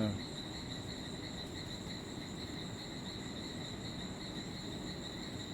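Steady insect chorus, a continuous high-pitched drone that holds level and unbroken.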